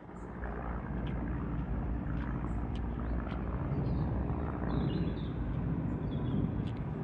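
Aircraft passing overhead: a steady low engine drone that swells in during the first second and then holds.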